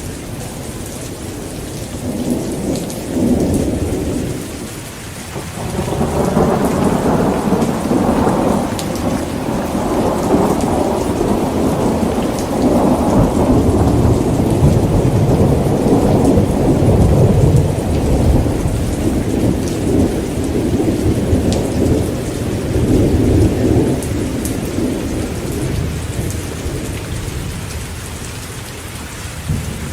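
Heavy rain falling steadily, with rolling thunder: a short rumble early on, then a long, louder rumble that builds about six seconds in and slowly fades over some twenty seconds.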